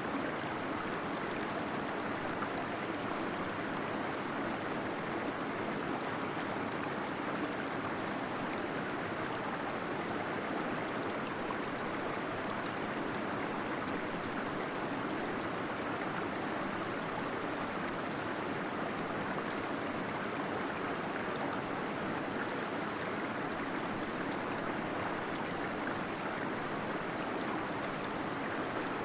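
Steady rush of a small waterfall splashing and gurgling into a pool inside a cave, an even, unbroken sound.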